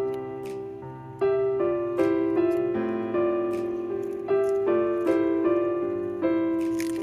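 Background piano music: a gentle melody of single notes struck about twice a second, each ringing and fading before the next.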